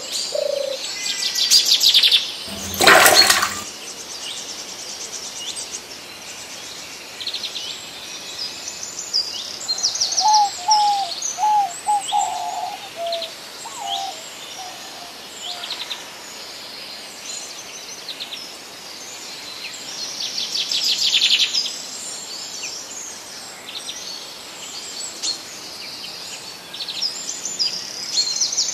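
Small birds chirping in quick repeated series throughout, with a short run of lower gliding call notes near the middle. About three seconds in, a sudden noisy rush lasts about a second and is the loudest sound.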